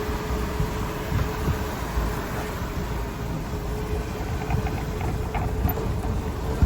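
Golf cart on turf tires driving through snow: a steady whine from the cart's drive over a low rumble, the whine fading out near the end.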